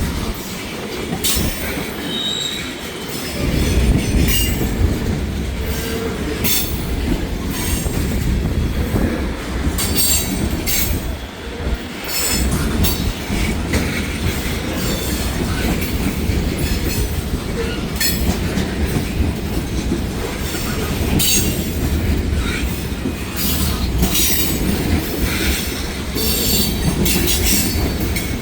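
Long freight train's cars rolling past at close range, a steady low rumble with steel wheels clicking over rail joints and squealing now and then.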